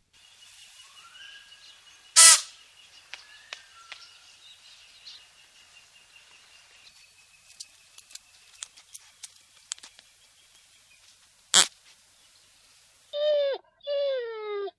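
Faint outdoor ambience with a high, steady bird-like chirping and scattered clicks, broken by two loud, sharp noises. Near the end, after a cut, two loud animal calls, each falling in pitch.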